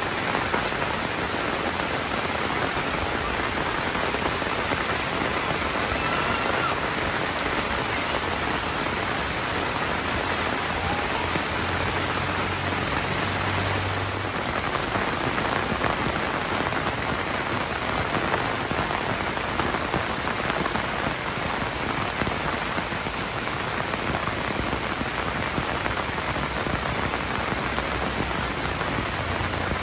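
Heavy rain falling steadily, a dense, even hiss of drops striking surfaces that does not let up.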